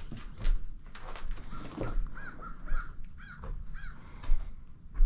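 A bird calling about five times in quick succession, roughly two calls a second, each a short note that rises and falls. Low thumps and rustling around it, the loudest thump near the end.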